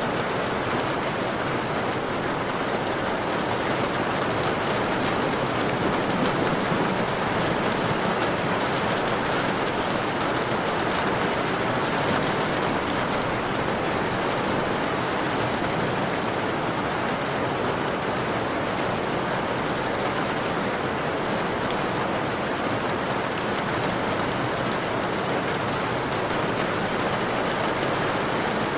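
Steady rain on window glass, a dense even wash of rain with many small drop hits and no lulls.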